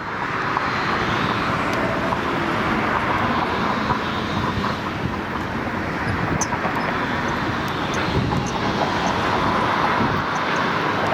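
Steady, even rushing noise of vehicles going by, with no distinct strikes or tones standing out.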